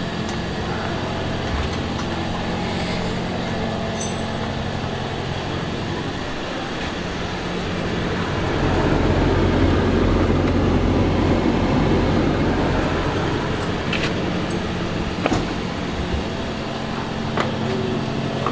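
Toyota Aqua hybrid's petrol engine idling steadily just after the car is started on a freshly fitted hybrid battery, growing louder and rougher for a few seconds about halfway through, with a few light clicks.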